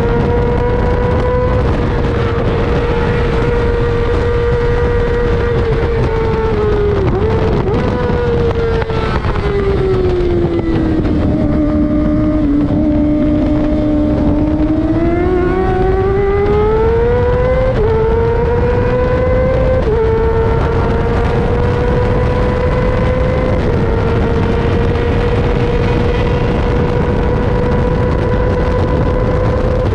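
Racing sportbike engine at high revs, held near the top with brief steps in pitch at gear changes. Partway through the revs fall away and stay low for a few seconds as the bike slows, then climb steadily as it accelerates again, over constant wind rush.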